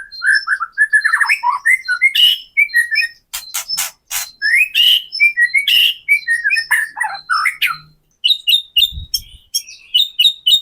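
White-rumped shama (murai batu) singing a fast, varied run of whistled phrases with sharp clicking notes mixed in. Near the end it switches to a quick series of short repeated high notes.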